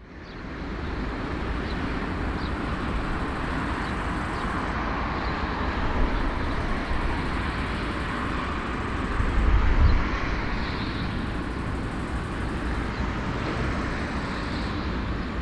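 Steady engine noise with a deep rumble, fading in at the start and swelling briefly louder about ten seconds in.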